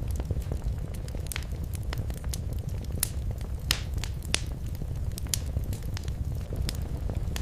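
Wood fire burning in a fireplace: a low rumble with irregular sharp crackles and pops, the loudest about three and four seconds in.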